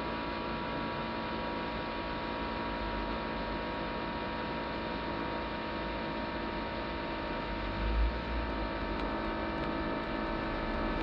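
Worn laptop CPU fan running with a steady, many-toned hum and vibration noise, the sign of a worn-out fan bearing. A low rumble swells briefly near the end.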